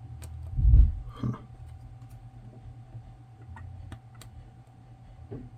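Scattered small clicks and ticks of a spudger picking and scraping rubbery coating off a circuit-board component, with a dull thump about a second in, likely the part or tool knocking on the bench.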